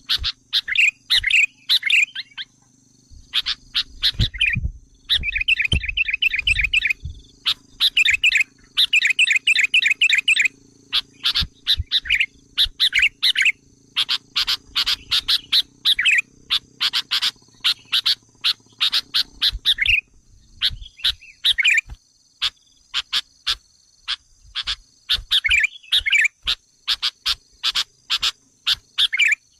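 Sooty-headed bulbul calls: rapid, sharp chip notes and short warbled phrases repeating without pause, over a steady high insect drone. Some low rumbles come in about three to seven seconds in.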